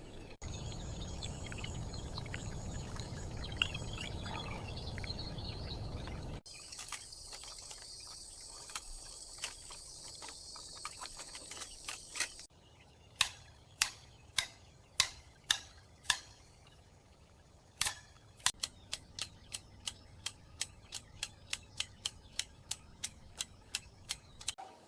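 Hammer knocking on wood: a run of sharp separate knocks, about two a second at first and quicker near the end, after several seconds of steady workshop noise and hiss.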